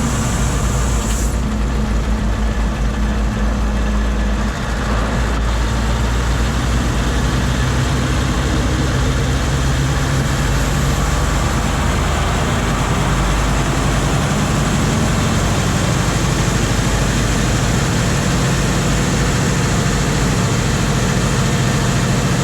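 Scania R520's 16-litre V8 diesel running steadily in a heavily loaded truck, a low engine note with a high hiss that cuts off about a second in.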